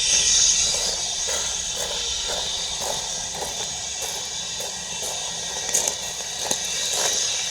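Steam locomotive hissing steadily as steam escapes, with scattered clicks and knocks.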